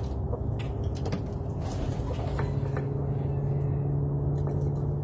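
Steady low engine hum with a rumble beneath it and a few faint clicks.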